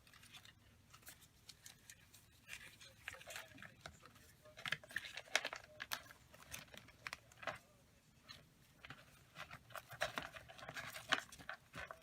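Paper being rummaged through and handled: irregular rustles and light taps of sheets and cut-outs being shuffled and picked up, busier from a couple of seconds in.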